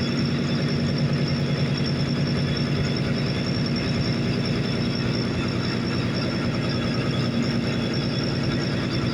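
Boat engine running steadily at an even speed, with a fast, regular firing rhythm.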